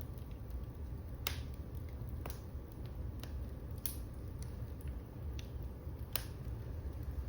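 Wood fire crackling in a fireplace: irregular sharp pops, a few of them louder, over a low steady rumble of the flames.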